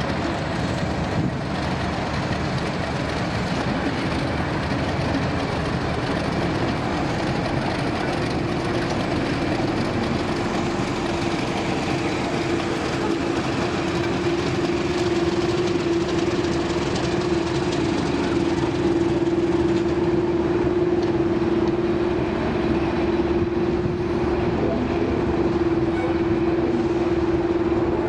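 Diesel locomotive running with a train, a dense mechanical rumble carrying a steady engine note that grows louder from about halfway through.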